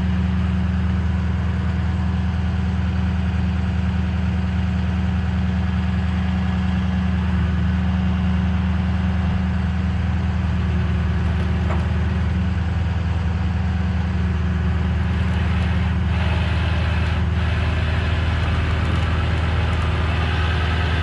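Tow truck's engine idling steadily with an even low hum.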